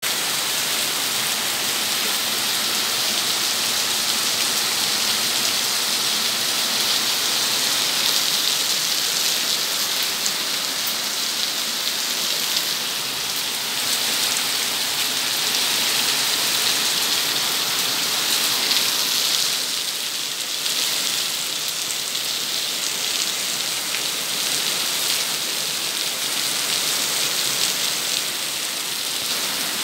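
Heavy rain falling steadily, a dense, even hiss of drops on the paving and roofs.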